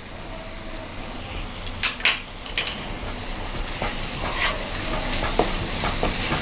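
Onion-tomato masala sizzling in a nonstick kadai as a wooden spatula stirs in freshly added ginger-garlic paste. The sizzle grows gradually louder, with a couple of sharp clicks about two seconds in and spatula strokes against the pan.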